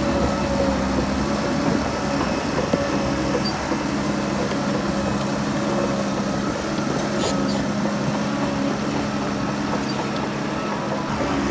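Heavy diesel engine of earthmoving machinery running steadily at a constant pitch, with a couple of short knocks about seven seconds in.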